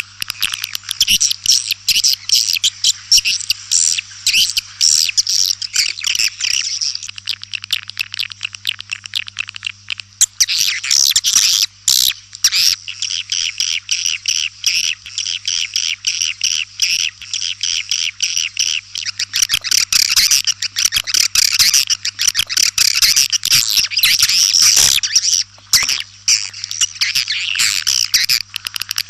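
Dense, continuous twittering of white-nest swiftlets: many rapid, overlapping high chirps of a swiftlet-house call recording, played to lure the birds to roost and nest. The chirping thins briefly about ten seconds in, then fills back in.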